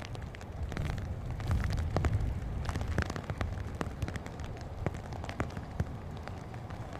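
Strong wind gusting over the microphone, a heavy rumble that swells and eases, with many scattered sharp ticks and taps throughout.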